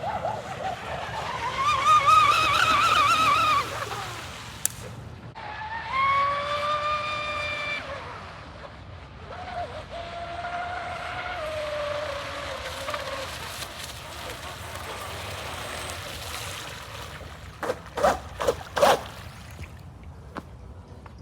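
Radio-controlled electric speed boat at full throttle, its motor whine wavering, rising and falling in pitch as it makes passes across the water. A few loud, sharp knocks come near the end.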